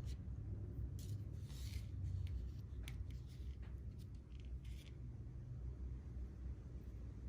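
Short, soft scratchy rubs and rustles of fishing line being worked by hand while a hook knot is tied, over a low steady room rumble. The rubbing stops about five seconds in.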